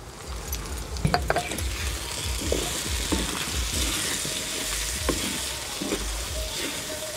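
Snail meat, onions and green chillies with fresh chilli powder sizzling in hot oil in a black pot, stirred with a wooden spatula that scrapes and knocks against the pot now and then.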